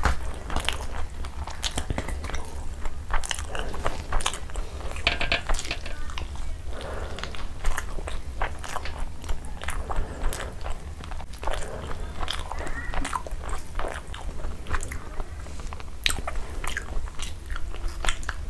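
Close-miked wet chewing of a mouthful of rice and chicken curry: irregular smacks and clicks, with fingers squishing rice on the plate. A steady low hum runs underneath.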